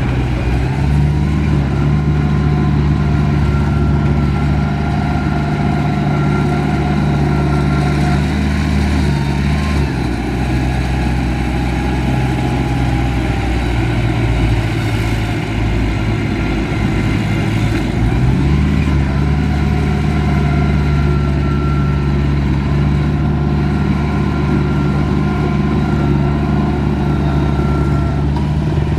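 Heavy diesel engine of earthmoving equipment running steadily under load, its pitch dropping around ten seconds in and rising back up about eight seconds later.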